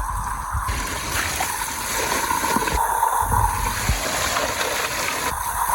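Steady running water in a gem-mining sluice, splashing as dirt is rinsed through a sieve.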